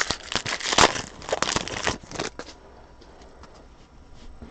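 A Prism football card pack's wrapper crinkling and tearing open, dense for the first two seconds or so. After that it goes quieter, with a few small clicks as the cards are handled.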